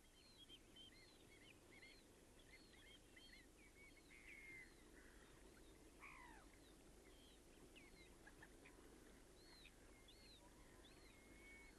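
Faint birdsong and bird calls: many short, high, arched chirping notes overlapping throughout, with one longer call falling in pitch about six seconds in, over a steady low background noise.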